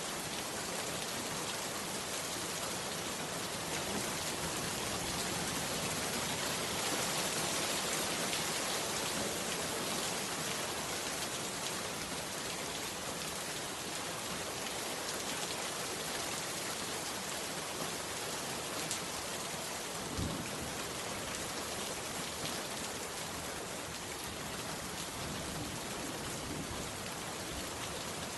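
Heavy rain falling steadily on a bamboo hut, a dense even patter, with one brief low thud about twenty seconds in.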